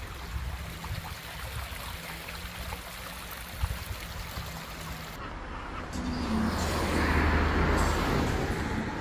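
River water running, with a low hum underneath, then a vehicle passes, swelling louder and loudest about seven to eight seconds in.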